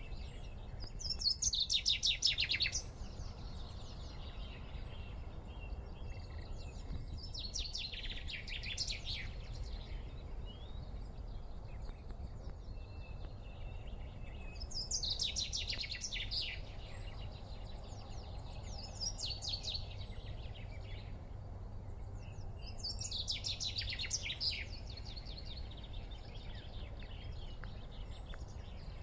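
A bird calling in five bursts, each a rapid series of high, falling notes lasting a second or two, spaced several seconds apart; the first burst, about a second in, is the loudest.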